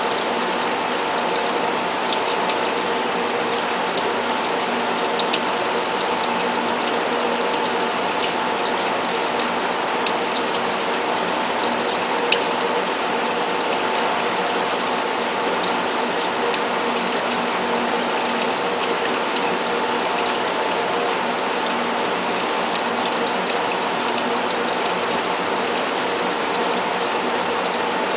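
Five-axis CNC die-sinking EDM machine running: a dense, steady crackle of rapid ticks over a steady hum, with an occasional sharper click.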